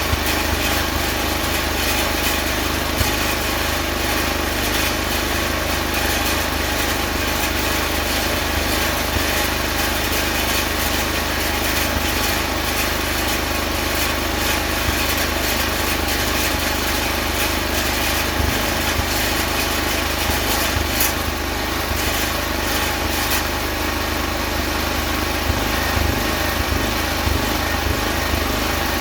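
A small engine or motor running steadily at a constant speed, with a fine crackle over it.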